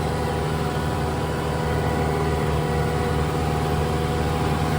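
Tractor engine running steadily at working speed while pulling a batwing rotary mower through dry weeds.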